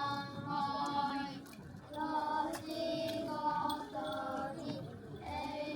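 Singing voices, high-pitched, holding long notes that change pitch every half second or so.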